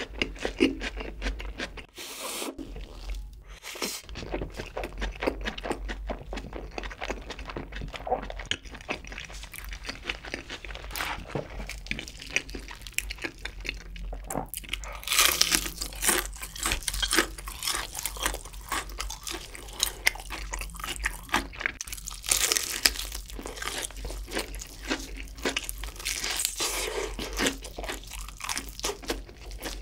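Close-up eating sounds: crispy breaded fried chicken being bitten and chewed with a steady crackly crunch. There are louder crunching bites about halfway through and again near the end.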